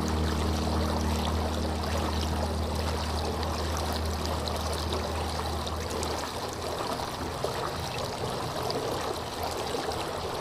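Running water: a steady stream flowing and trickling. Low, sustained notes of a soft melody fade out in the first half.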